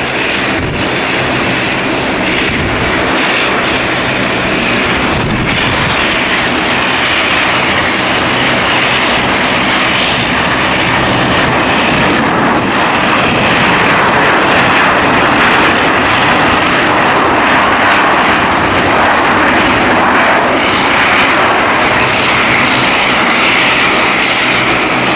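Airliner engines running loud and steady, growing a little louder about halfway through, with a thin steady high whine.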